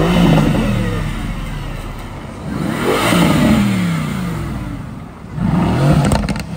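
Mercedes-AMG GT coupe's V8 engine revved three times as the car pulls past, the pitch rising and falling with each rev, with a few sharp cracks near the end.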